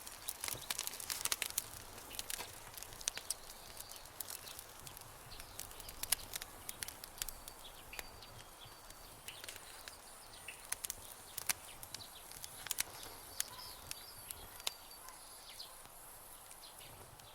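Campfire crackling: irregular sharp pops and snaps over a soft hiss, denser in the first few seconds. Faint high chirps sound in the background through the second half.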